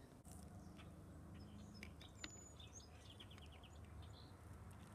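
Near silence with a few faint bird chirps: a short high note and a quick little trill around the middle.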